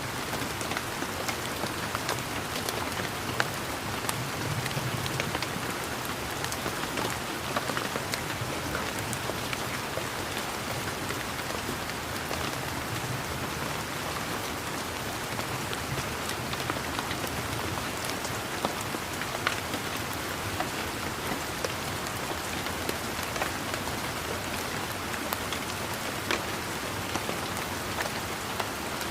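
Steady rain falling, an even hiss with many scattered individual drops striking.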